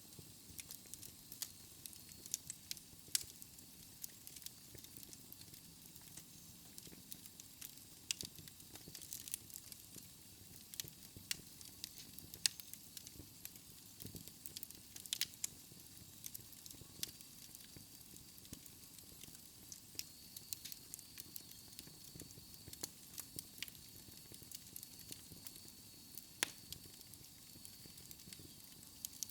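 Wood fire burning in a fireplace, crackling with many irregular sharp pops and snaps over a faint steady hiss.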